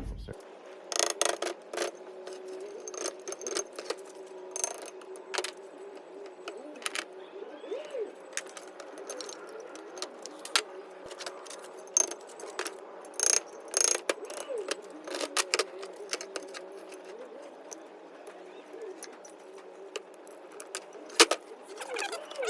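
Irregular sharp metallic clinks and scrapes of hand tools working against steel parts, as hole-less C-clips are picked out of a Mustang Cobra IRS rear spindle, over a steady background hum.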